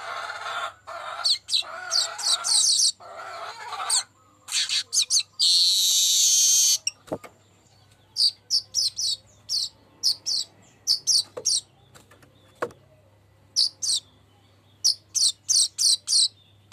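Manyar weaver bird in full song: rapid chattering phrases, then a long high wheezing buzz about five seconds in, followed by quick bursts of short high chirps.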